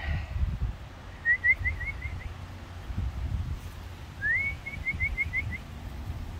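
A songbird singing two short phrases, each a quick run of about six brief, repeated notes at one pitch; the second phrase opens with a rising slur. Under it is a low rumbling noise on the microphone.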